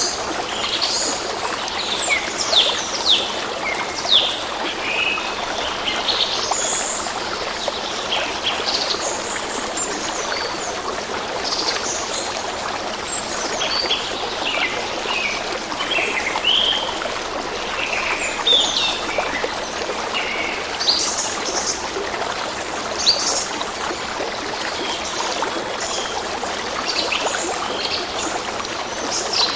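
Small stream trickling steadily, with many songbirds chirping in short, quick notes throughout.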